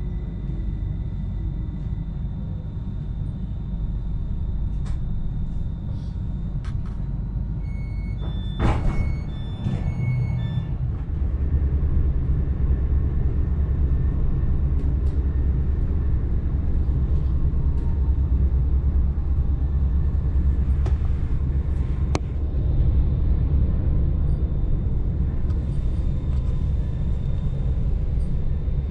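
Cabin noise of a Stadler KISS double-deck electric train pulling out of a station: a steady low rumble that steps up in level about eleven seconds in as it gathers speed. A short run of electronic beeps and clicks sounds just before that.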